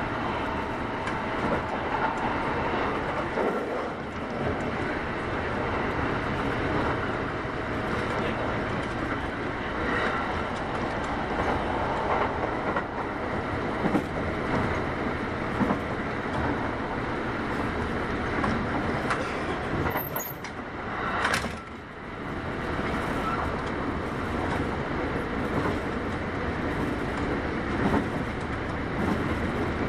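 Kintetsu 8810-series electric train running, heard from inside the car: a steady rumble of wheels and motors on the track. About twenty seconds in the noise briefly drops, with a short sharp hiss.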